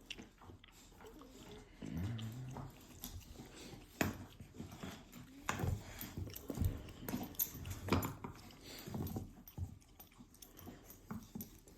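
Rottweilers gnawing on bones: irregular cracks and crunches of teeth on bone.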